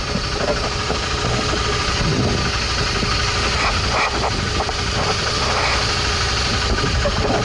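Motorcycle engine running steadily at low speed, with a steady rush of noise, picked up by a camera on the rider.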